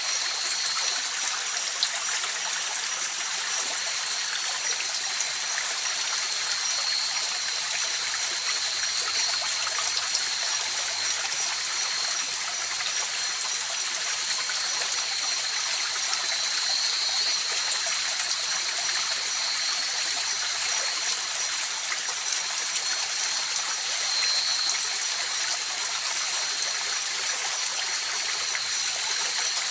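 River water flowing and rippling in a steady, even rush, with a thin, high-pitched steady tone running above it.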